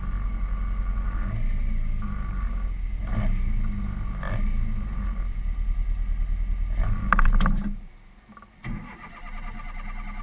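Mk 1 Ford Cortina's engine idling with the car stationary. About seven seconds in it gives a brief louder burst, then its note cuts out, and after a second a weaker whirring like a starter cranking begins.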